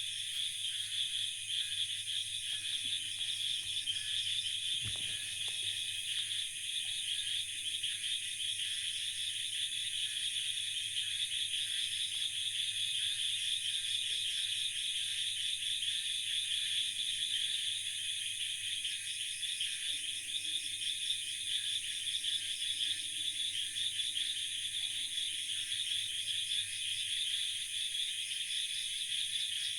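Dense night chorus of frogs and insects calling steadily after heavy rain, a continuous shrill pulsing hum.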